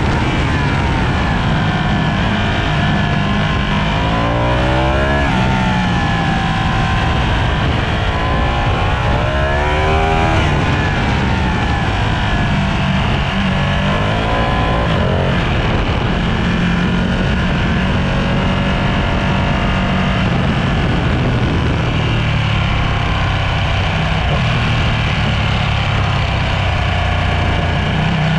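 Sport motorcycle engine running hard at high revs, its pitch climbing and dropping several times with acceleration, gear changes and braking.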